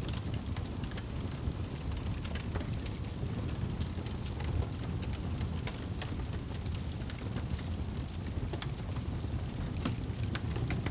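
Crackling fire, irregular sharp pops and snaps over a steady low rumble, mixed with the even hiss of rain.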